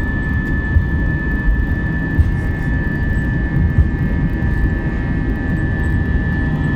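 Airbus A320-200's jet engines heard from inside the cabin: a steady, loud low rumble with a constant high whine running over it.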